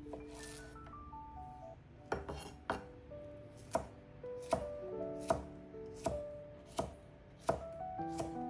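Knife chopping on a cutting board: about nine sharp, evenly paced chops, a little more than one a second, starting about two seconds in. Soft melodic background music plays throughout.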